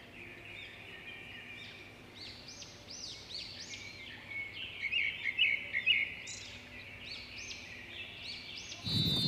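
Small birds chirping, a steady run of short, high arching notes. Music comes in loudly just before the end.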